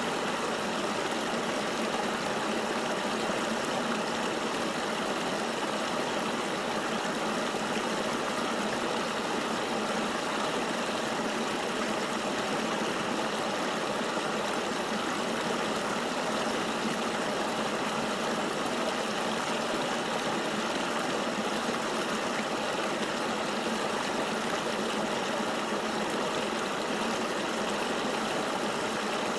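Steady rushing of flowing river water, an even hiss with little deep rumble and no changes.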